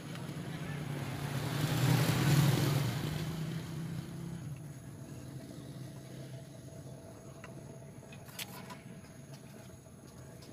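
A motor vehicle passing by, its engine sound swelling for about three seconds and fading away, then a faint steady hum with a couple of light clicks near the end.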